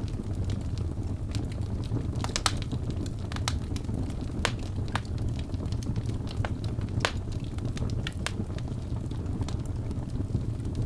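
Wood fire burning in a fireplace: a steady low rumble of flames with irregular sharp crackles and pops from the burning logs, a few louder pops about two and a half seconds in and again near seven seconds.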